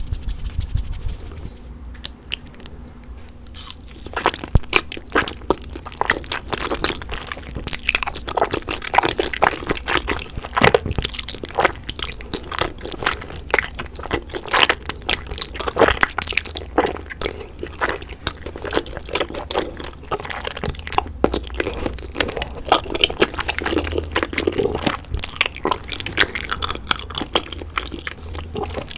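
Close-miked eating of cheesy rose-sauce bunmoja and glass noodles: wet, sticky chewing with dense irregular smacks and crackles, starting about four seconds in.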